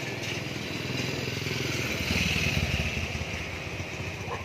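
Motorcycle engine running, growing louder towards the middle and easing off near the end.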